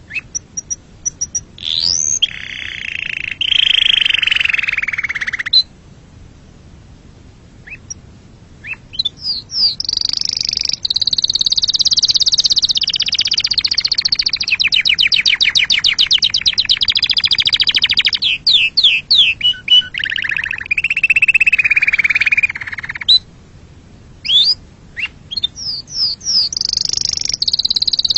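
Domestic canary singing loud, high song phrases: quick rising and falling whistles and long trills of rapidly repeated notes. It breaks off briefly a couple of times and starts up again.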